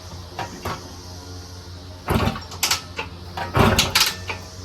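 Irregular knocks and clatters of handling work on a motorcycle, over a steady low hum. The loudest cluster comes about two seconds in and another about three and a half seconds in.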